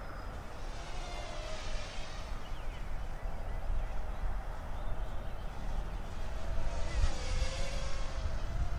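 Parrot Mambo mini quadcopter's propellers whining in flight, the high buzz swelling twice as it comes nearer, over a low rumble of wind on the microphone.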